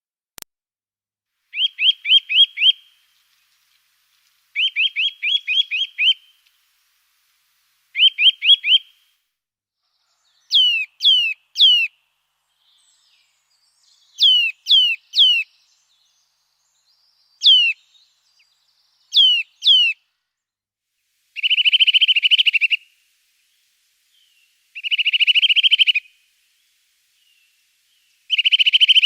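A songbird singing in short phrases with pauses between them. The early phrases are quick runs of repeated notes, the middle ones are descending notes in groups of two or three, and the last three are buzzier.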